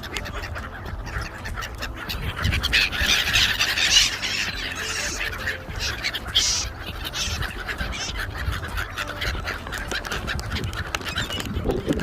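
A crowd of waterbirds, gulls and ducks, squawking and calling as they are fed, busiest in the first half with a few sharp calls in the middle, over a low rumble.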